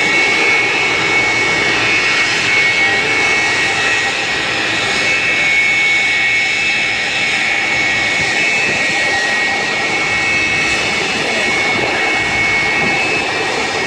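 Jet airliner's engines running steadily, a loud even rush with a high whine over it.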